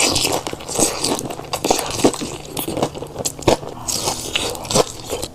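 Close-miked chewing of a big mouthful of fried chicken and spicy Buldak ramen noodles: crunchy bites and wet mouth clicks and smacks, with a couple of louder crunches past the middle.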